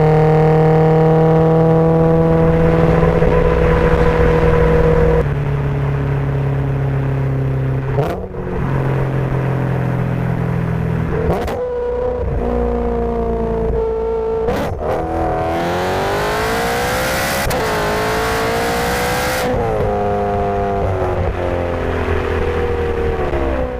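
Supercharged BMW M3 V8 being driven through an aftermarket exhaust. It holds a steady cruise at first, then breaks off sharply a few times as gears change, and in the second half the revs rise and fall.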